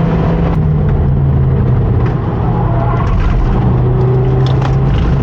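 Mazda RX-8's two-rotor Wankel rotary engine running hard on track, heard from inside the car; its note eases down slightly early on and then holds steady, with a few light rattles and clicks over it.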